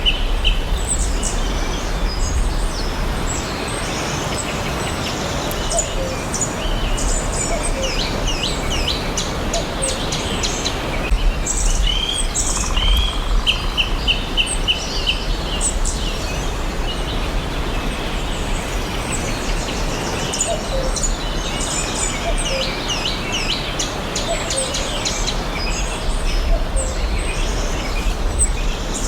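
Several forest birds chirping and singing, with many short high chirps and whistles, over a steady background hiss. A rapid trill of repeated notes comes at the start and again about halfway through.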